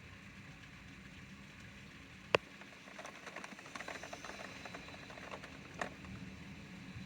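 Rain falling, a steady hiss with water drops pattering irregularly on hard surfaces, busiest in the middle. One sharp, loud tap about two seconds in and a smaller one near the end, like heavy drips striking something hard.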